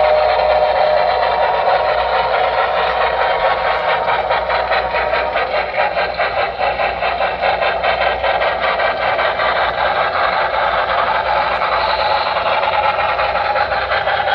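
Two model steam locomotives running at once, their rhythmic chuffing and the rolling clatter of their wheels on the track going steadily without a break.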